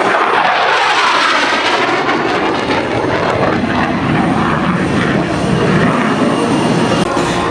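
An airplane flying past low and loud, its pitch falling as it passes, then a deep rumbling engine noise.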